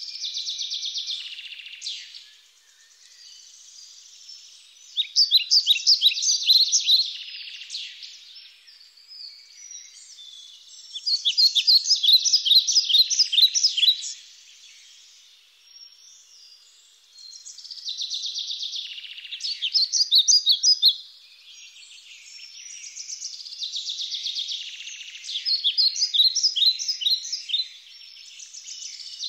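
Songbird singing: phrases of rapid, high chirping notes, each lasting two to four seconds, coming back about every five seconds.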